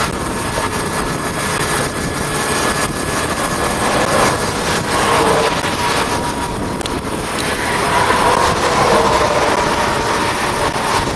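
Steady road and wind noise of a moving vehicle, with a faint whine that wavers slowly in pitch.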